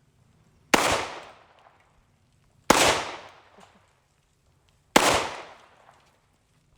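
Three single gunshots about two seconds apart, each sharp crack trailing off in a ringing echo over about a second.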